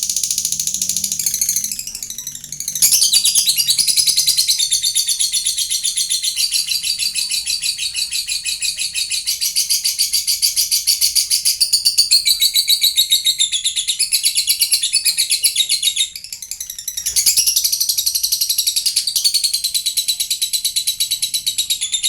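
Lovebird ngekek: a long, fast chattering run of high chirps, breaking off briefly twice.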